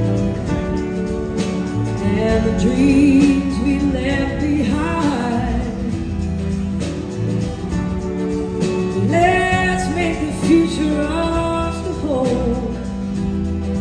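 Live band performing, with a singer's lead vocal over sustained band accompaniment. The vocal comes in two phrases, one a few seconds in and another about two-thirds of the way through.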